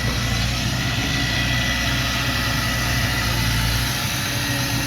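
Heavy diesel engine of earthmoving equipment running steadily at a low, even speed, with a faint steady high tone.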